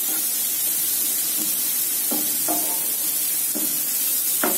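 Soaked red lentils frying with a steady sizzle in a frying pan while a spatula stirs them, with a few short scrapes of the spatula against the pan about two seconds in and again near the end. The lentils are being sautéed dry in the onion-tomato masala before the pan is covered.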